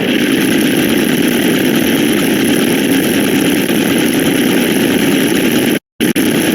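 A loud, harsh, steady noise effect, engine-like in kind, that cuts off abruptly for a moment near the end before resuming.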